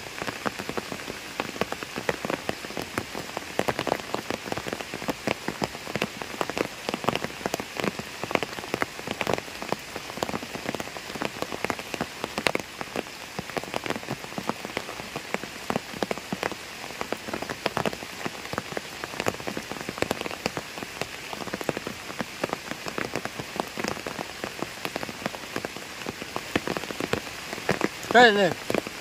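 Steady rain falling on water, a dense spray of many small drop impacts. About a second before the end a brief wavering pitched sound cuts in, the loudest moment.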